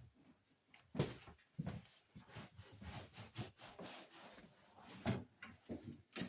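Light scattered knocks and handling noises, with sharper knocks about a second in, shortly after, and about five seconds in.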